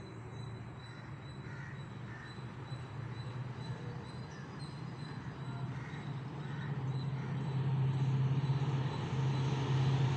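A train approaching from the distance, its low steady hum growing louder over the seconds, with a few short bird calls above it.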